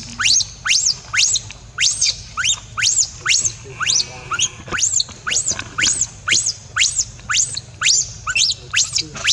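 A newborn monkey crying with shrill, rising squeals, repeated about twice a second.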